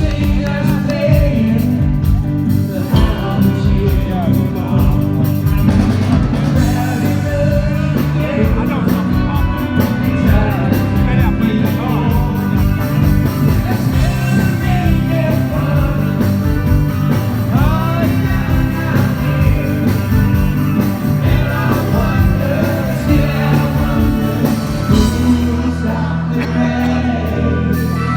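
Live rock band performing a song: a male lead voice singing over electric guitars, bass and drums.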